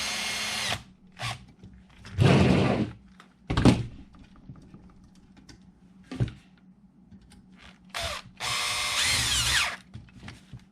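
Small cordless power driver whining in two short runs, its pitch shifting as it drives screws into the RC truck frame, with knocks and a clatter of parts being handled in between.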